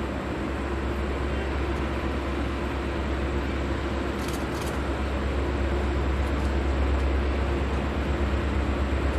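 Diesel locomotives of an approaching empty coal train, still distant: a steady low rumble that grows slowly louder.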